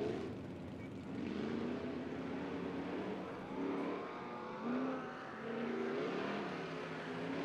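4x4 off-road race truck's engine revving hard, its pitch rising and falling as the driver accelerates and lifts off through the turns.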